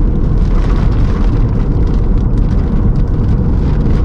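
Strong crosswind buffeting a moving car, a loud steady low rumble of wind and road noise, with a few faint ticks over it.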